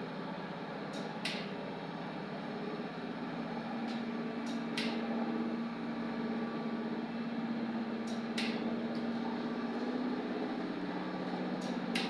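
Electric hoist motor of a 1980s KMZ elevator running with a steady hum, its tone strongest through the middle. Short sharp clicks come about every three and a half seconds.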